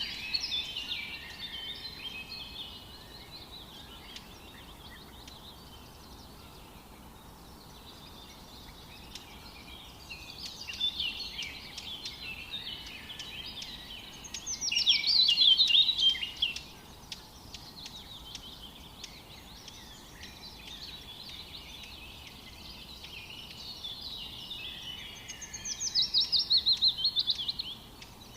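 A songbird singing phrases of chirping notes, each ending in a loud, fast trill that falls in pitch. The song comes three times, with steady faint background hiss between phrases.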